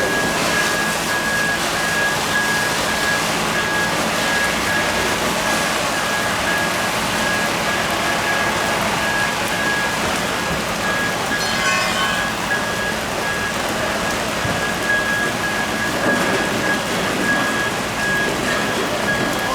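Steady rushing spray of water from a fire hose, with a high electronic beep repeating in short even pulses throughout and a brief burst of other tones about halfway through.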